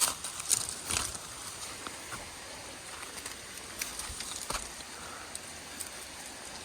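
Footsteps on a forest trail, with leaves and twigs crunching and crackling underfoot in irregular bursts over a steady faint hiss.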